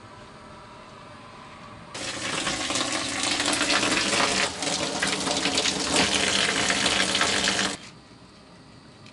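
Water running hard from a faucet, turned on about two seconds in, with a brief dip partway, and shut off abruptly near the end.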